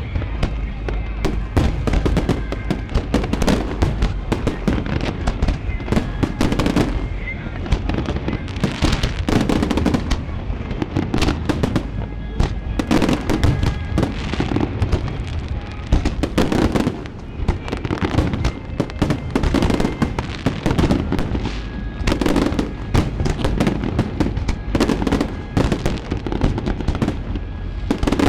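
Aerial fireworks bursting in rapid, continuous succession: dense overlapping bangs and crackles over a deep, steady rumble.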